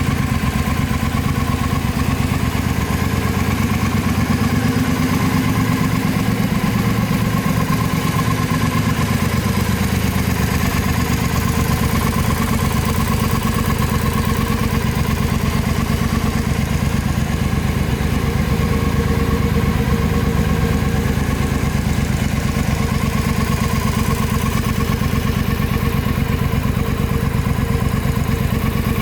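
Triumph America motorcycle's parallel-twin engine idling steadily.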